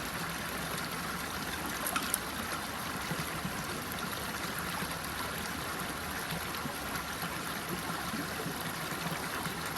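Running water flowing steadily in an even rush, with two small ticks about two seconds in.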